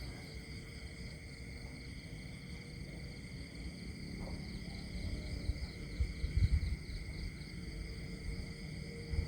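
Countryside nature ambience: a steady chorus of insects chirring at several high pitches, with a low rumble swelling about five to seven seconds in.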